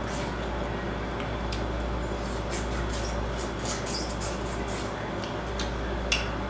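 Close-up mouth noises of eating seafood: a quick run of wet smacks and clicks from chewing, busiest in the middle, with one sharper click near the end, over a low steady hum.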